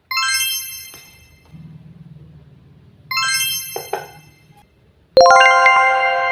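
Bright chime tones struck three times, each a chord of ringing notes that fades away; the third, about five seconds in, is lower and the loudest and rings on.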